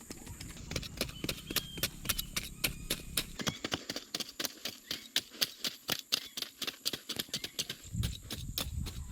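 A quick, irregular run of sharp knocks, several a second, over a steady high hiss.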